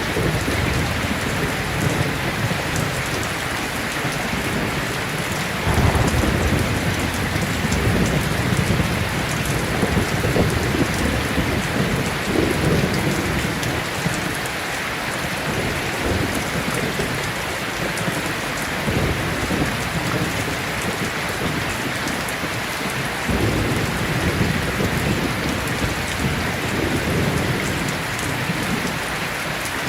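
Heavy rain falling steadily, with low rolls of thunder rumbling on and off; a strong rumble comes about six seconds in.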